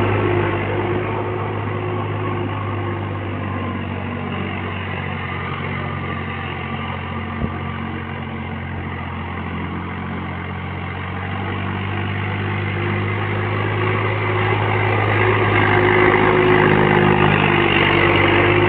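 Swaraj tractor's diesel engine running steadily while ploughing, a little quieter through the middle and growing louder near the end. A single brief click sounds about halfway through.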